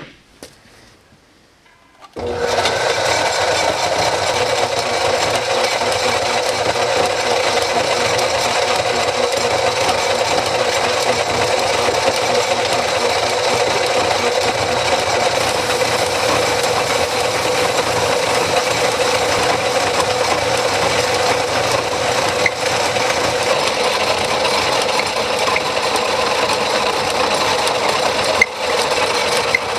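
A shop power tool starts up about two seconds in and runs steadily, a constant hum with steady tones under an even rubbing noise, as it works on the rusty rifle barrel.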